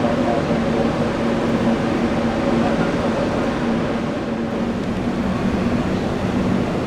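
Jet airliner engines running steadily: an even noise with a low, steady hum.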